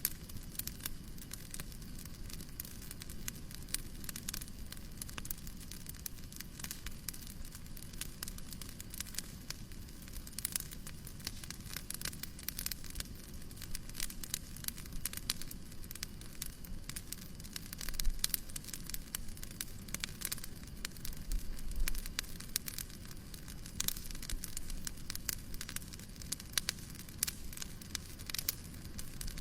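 Fireplace crackling: dense, irregular snaps and pops over a steady low rush, with a few louder pops about two-thirds of the way through.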